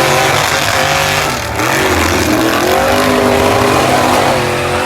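Monster truck engine running loud at high revs, its pitch rising and falling as it revs up and down, with a brief dip about one and a half seconds in.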